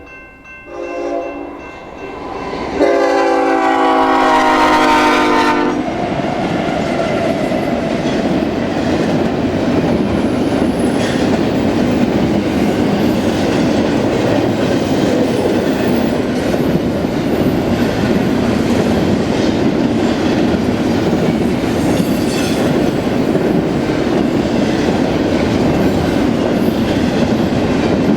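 BNSF freight locomotive sounding its multi-chime air horn: a short note about a second in, then a loud longer blast from about three seconds in. After the horn, the train rolls past with steady wheel-on-rail noise and clickety-clack.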